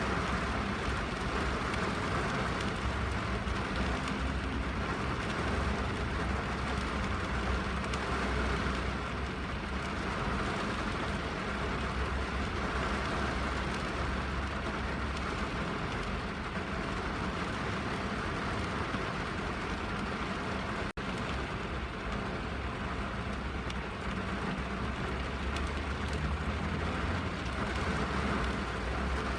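Steady rain drumming on a car's roof and windows, heard from inside the cabin, with a low rumble underneath. The sound drops out for a split second about two-thirds of the way through.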